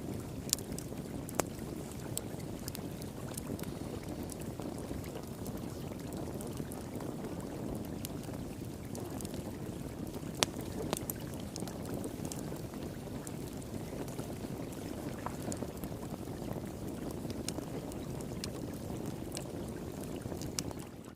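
Wood fire in a fire pit crackling with scattered sharp pops, over the steady rush of flowing water.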